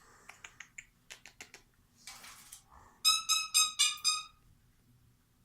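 A parrot giving a quick run of about five short, high calls about three seconds in, after a spell of soft clicking and a brief hiss.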